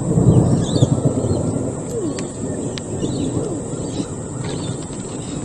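Rolling thunder from an approaching storm, a low rumble that swells just at the start and then rumbles on more evenly, while birds chirp and call over it.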